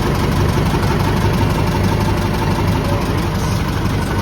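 An engine running steadily at a constant speed, with a low hum and a hiss over it.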